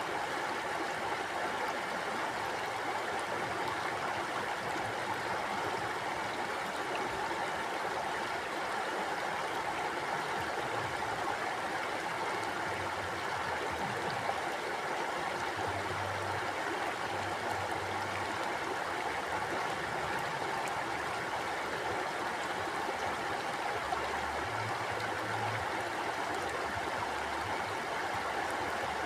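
Stream water flowing steadily, a continuous even rush of running water.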